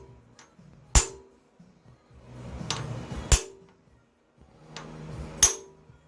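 Hammer strikes driving a new pilot bearing into the crankshaft of a 1990 Mustang GT's 5.0-litre V8: three sharp metal-on-metal blows about two seconds apart, each ringing briefly.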